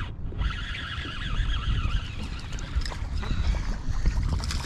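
Wind rumbling on the microphone, with a steady high whirr over it, typical of a spinning reel being cranked to bring in a small hooked smallmouth bass.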